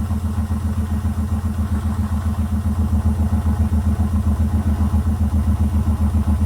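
Zanussi FL984CN washing machine spinning its drum at speed: a steady low motor-and-drum hum that pulses fast and evenly.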